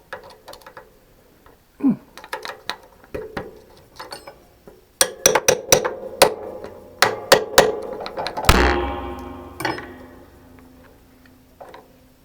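Steel tools and parts knocking and clinking as they are handled, with scattered taps and then a quick run of knocks. About eight and a half seconds in comes a loud metallic clang that rings on for a couple of seconds.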